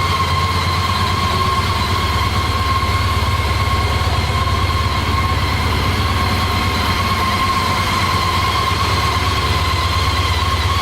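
Honda ST1300's V4 engine idling steadily, with a steady high-pitched whine over the low engine note.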